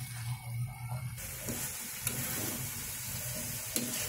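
Cabbage and beef curry sizzling in an aluminium karai as a spatula stirs it, frying down until its liquid dries off. The sizzle gets louder about a second in, with two sharp clicks of the spatula against the pan and a steady low hum underneath.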